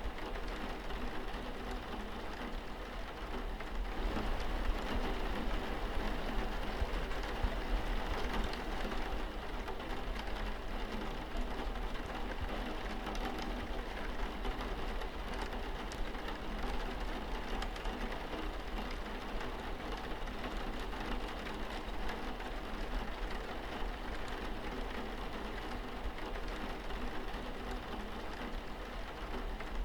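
Steady rain falling on a window pane: a continuous hiss of rain with many small drop ticks, a little heavier for a few seconds near the start, over a low steady rumble.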